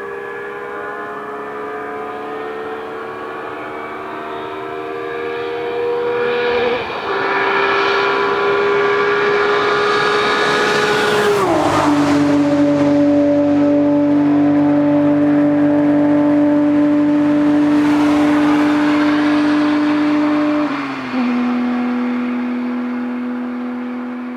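BMW E36 M3's Euro S50B32 straight-six, with individual throttle bodies and a Supersprint Race exhaust, accelerating hard. Its pitch climbs and drops at an upshift about seven seconds in, then sharply at another about eleven seconds in. It then holds a steady, loud pitch for several seconds before a small dip and a gradual fade near the end.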